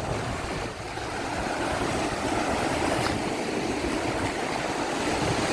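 Gulf surf washing up the beach: a steady rush of breaking waves that builds a little about a second in and then holds.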